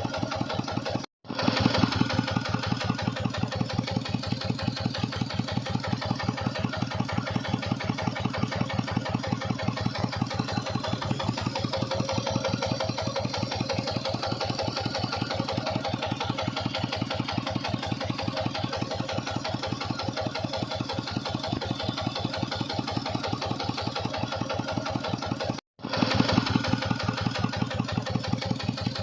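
Tractor engine running steadily to drive a water pump, with an even, rapid firing beat. The sound drops out completely twice for a split second, about a second in and near the end.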